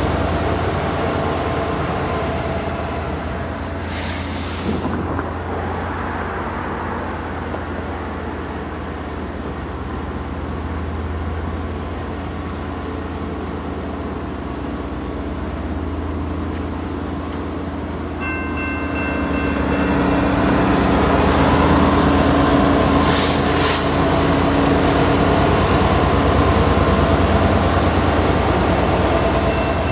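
Canadian Pacific SD30C-ECO diesel locomotive and the Detroit Diesel-powered Jordan spreader it pushes, running steadily as the spreader plows and reprofiles ballast and dirt along the track. The sound grows louder about two-thirds of the way through. Two brief bursts of hiss come a few seconds in and about three-quarters through.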